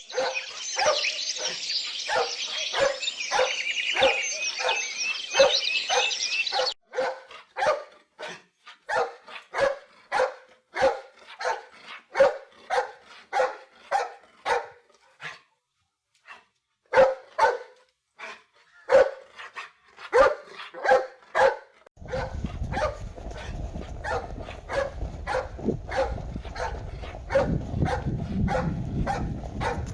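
A dog barking over and over, about two barks a second, with a short pause about halfway through. High chirping sits behind the barks for the first few seconds, and a low steady rumble comes in behind them for the last third.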